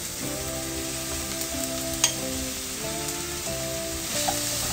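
Chopped onion sizzling in a frying pan as it is stirred with chopsticks, with a sharp click about two seconds in.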